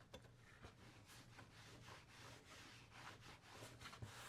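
Faint rubbing as boiled linseed oil is wiped onto a leather belt, in a string of soft, repeated strokes.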